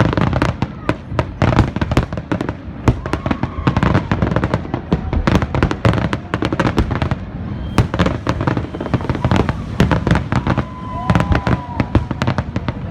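Fireworks display: a dense, continuous barrage of bangs and cracks, several a second, with faint drawn-out tones in the background now and then.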